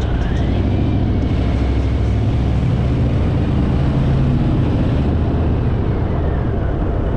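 Harley-Davidson Fat Boy's V-twin engine running steadily at road speed, with wind rushing over the microphone.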